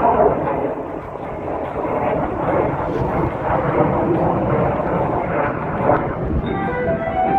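Steady, loud jet noise from an A-10 Thunderbolt II's twin turbofan engines as it flies its airshow pass. Music with steady pitched notes comes in near the end.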